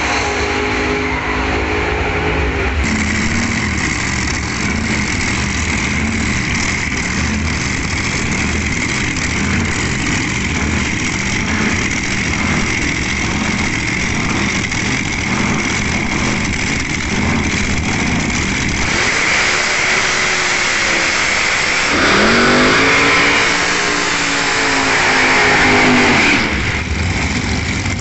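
Drag racing car engine running loudly, revving up and back down twice near the end, the second rev the longest and loudest.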